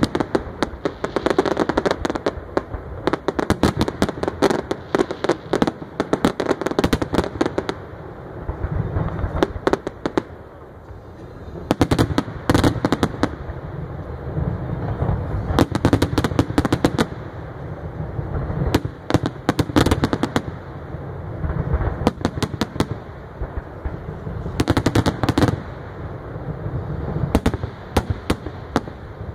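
Aerial fireworks display: clusters of rapid sharp bangs and crackling shell bursts, several quick runs of them, over a continuous low rumble of booms.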